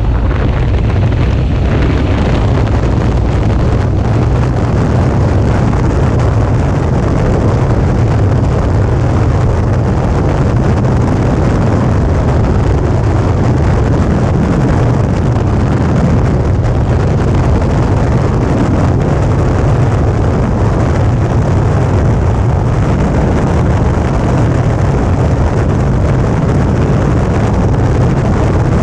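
Suzuki V-Strom 650's 645 cc V-twin engine running at a steady road speed, under heavy wind noise on the microphone. The sound is loud and even throughout, with a deep low rumble.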